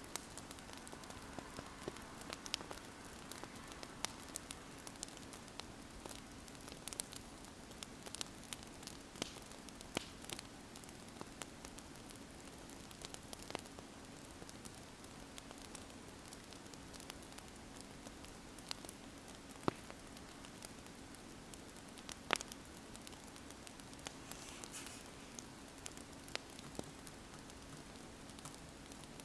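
Wood fire crackling: irregular sharp pops and snaps over a steady hiss, with a faint steady low hum underneath.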